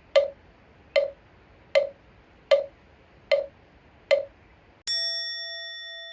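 Six evenly spaced hollow knocks, like a wooden fish (mokugyo) being beaten, followed by a single strike on a bowl-shaped Buddhist meditation bell that rings out with several overtones and slowly fades.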